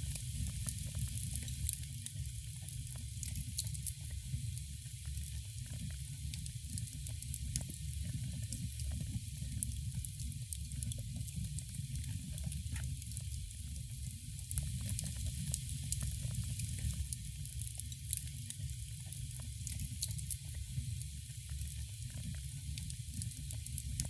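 Wood fire burning in a fireplace, crackling and popping with irregular small snaps over a steady hiss and a continuous low rumble.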